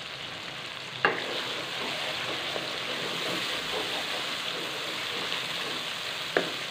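Tomatoes frying in ghee in a metal karahi, a steady sizzle as they are stirred with a wooden spatula. The spatula knocks sharply against the pan about a second in and again near the end.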